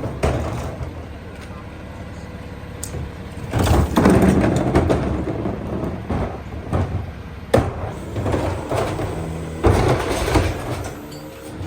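Freightliner EconicSD McNeilus rear-loader garbage truck running while recyclables are tipped and packed in the hopper, with a burst of clattering a few seconds in and sharp bangs of metal and material striking about two-thirds of the way through.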